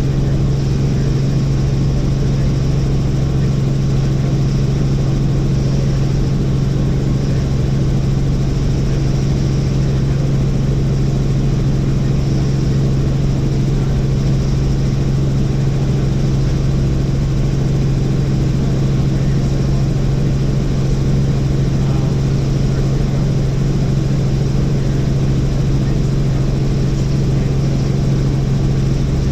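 Helicopter in steady flight: a constant engine and rotor drone with a strong low hum, unchanging throughout.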